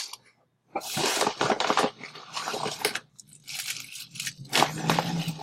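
Rustling and crinkling as squishy toys are handled close to the microphone, in two stretches: about a second in and again near the end.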